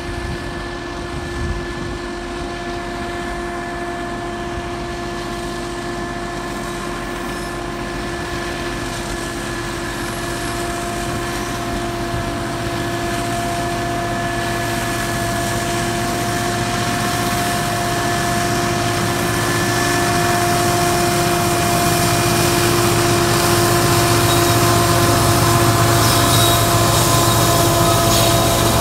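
Train running, a steady whine of several held tones over a low rumble, growing slowly louder as it draws near.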